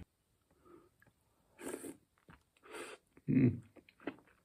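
Close-up mouth sounds of a person eating and drinking: small chewing and lip clicks, two breathy sips or breaths, and a louder low sound about three seconds in.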